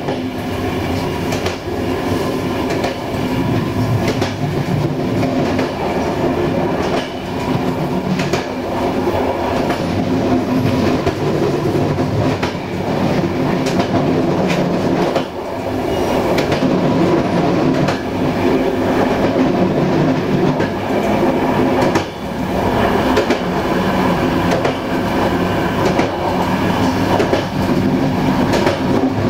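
Passenger train running steadily along the line: continuous wheel-on-rail rumble from the carriage, with occasional clicks from the track.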